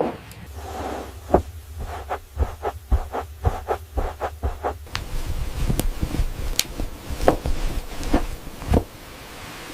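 A series of dull thumps, about three a second for the first few seconds, then slower strikes about one every three-quarters of a second over a steady hiss.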